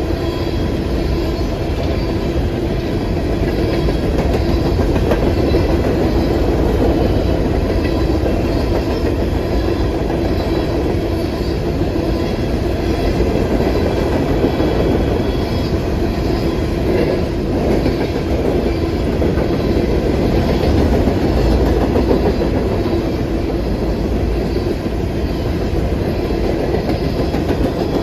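Freight train cars rolling past at close range, wheels clicking over the rail joints in a steady, loud rumble.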